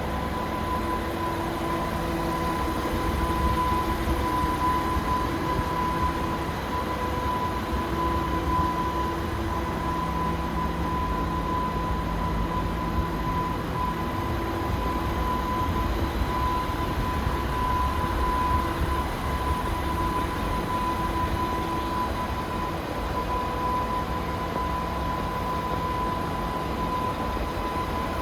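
DAF CF460 tractor unit's Paccar 460 bhp Euro 6 diesel engine running steadily at idle, a low rumble with a steady high-pitched whine over it.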